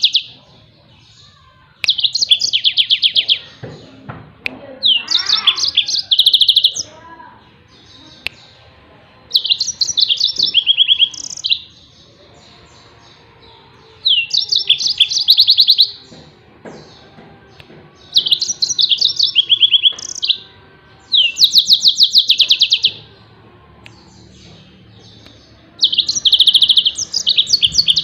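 Yellow-fronted canary (Mozambique canary) singing its rapid 'tembakan' song: loud bursts of fast, high trills, each phrase about two seconds long, repeated about every four seconds, seven or so times.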